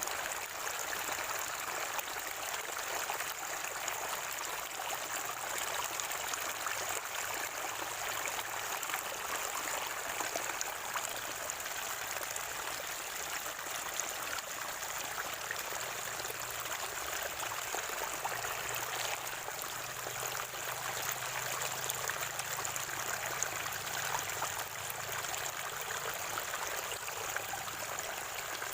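Water from a natural spring running and gurgling steadily.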